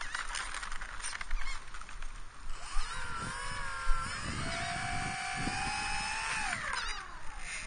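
Twin brushless electric motors of a Dynam Sky Bus C-47 RC plane throttled up in a ground run: a whine rises about two and a half seconds in, holds steady, then falls away near the end. Rustling and clicks come before it.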